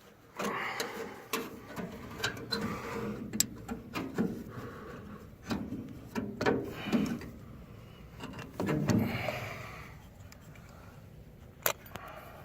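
Hands working parts of a Ford 9N tractor's distributor and its cap: scattered sharp clicks and taps with bouts of rubbing and scraping, easing off in the last couple of seconds.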